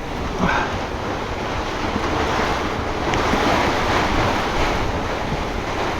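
Tornado-strength wind and heavy rain lashing a sailboat: a dense, steady rushing noise that swells slightly and eases again, with wind buffeting the microphone.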